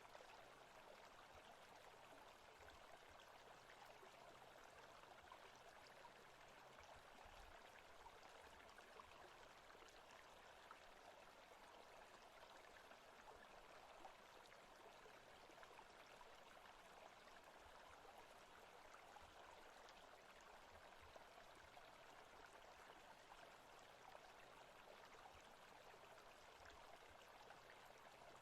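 Faint, steady forest ambience of running stream water, an even hiss with no distinct events.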